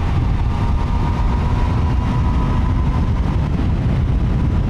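Triumph Trident 800's 798cc three-cylinder engine running at a steady pace on the move, under a loud, even rush of riding wind on the microphone.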